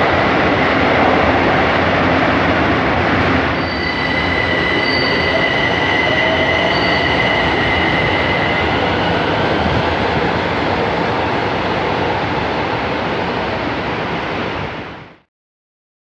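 São Paulo Metro train running through the station, a loud steady rumble of wheels on rail with high-pitched wheel squeal from about four to nine seconds in. The sound cuts off suddenly near the end.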